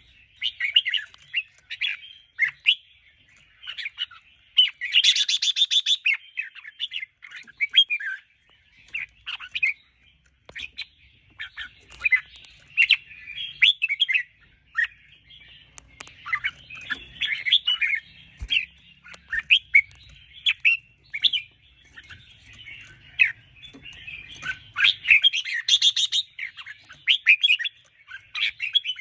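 Red-whiskered bulbul singing: a busy run of short, quick chirping phrases, broken by a rapid, harsh rattling burst about five seconds in and again near the end.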